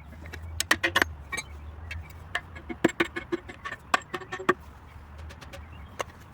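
Irregular sharp metallic taps and clinks, some in quick clusters and some ringing briefly, over a steady low hum.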